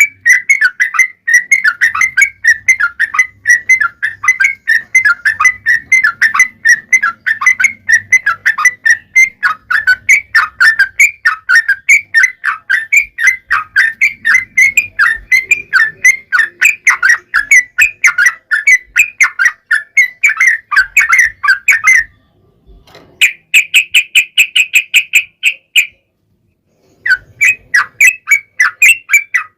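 Yellow-vented bulbul (trucukan) singing a long run of rapid, loud chattering notes, breaking off about 22 seconds in. After a short gap a run of quicker, more even chirps follows, then a second of silence before the song starts again near the end.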